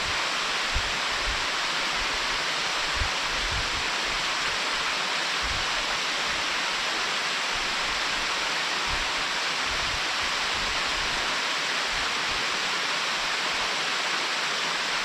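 Mountain stream rushing steadily where it pours over a check dam just above a waterfall. There is a brief low thump about a second in.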